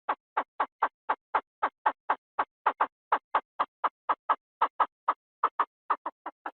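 Chinese francolin calling: a fast, even series of short harsh notes, about four a second, that comes a little quicker near the end.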